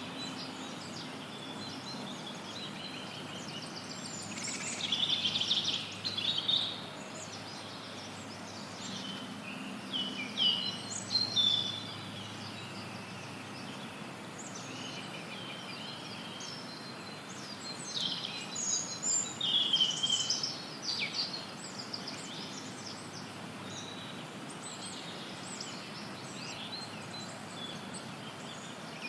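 Forest birds singing and chirping in several short bursts of song over a steady hiss of white noise.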